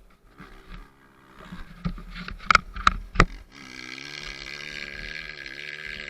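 Dirt bike engine: three sharp pops about two and a half to three seconds in, then the engine running at a steady, held pitch for about three seconds.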